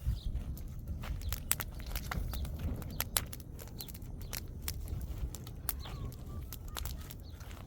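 Irregular sharp clicks and light knocks over a steady low rumble, with a few short, faint bird chirps.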